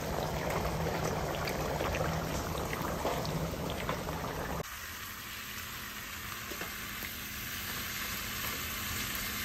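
Beef tips in gravy bubbling and sizzling in a skillet as a wooden spoon stirs them, with a few light spoon clicks. About halfway through, the sound changes abruptly to a quieter sizzle of asparagus being stirred in a pan.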